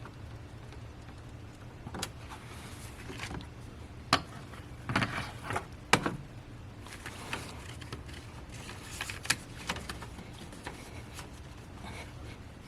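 Metal hand tools clinking and knocking in an engine bay as an extended wrench is worked on a tight bolt, with several sharp metallic knocks about 2, 4, 5 and 6 seconds in.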